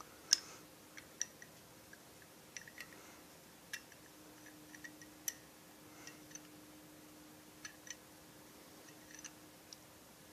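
Scattered light clicks and taps, about a dozen spread irregularly over ten seconds, as small chainsaw kit parts and their packaging are handled, with a faint steady hum underneath.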